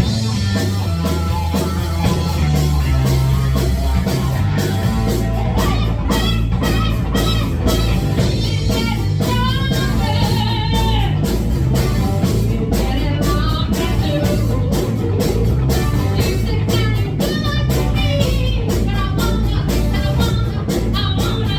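Live rock band playing: electric guitar lead over bass and drums.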